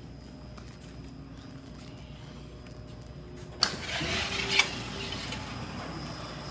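Commercial high-speed door opening under its motor, a steady low mechanical hum. Two sharp clicks come about three and a half seconds in and again a second later.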